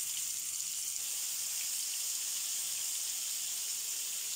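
Marinated chicken pieces sizzling steadily in hot oil in a frying pan as they are laid in with tongs.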